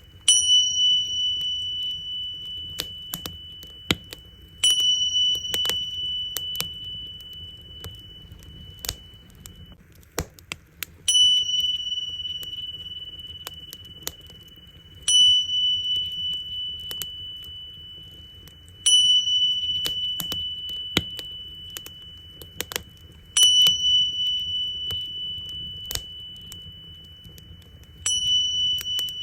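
Tingsha cymbals struck together seven times, about every four to five seconds, each strike ringing out high and clear and fading slowly. Beneath them a wood fire crackles with scattered pops.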